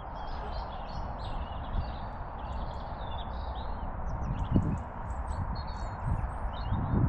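Footsteps walking through field cover, with heavier thumps about four and a half seconds in and near the end. Small birds chirp over the top throughout.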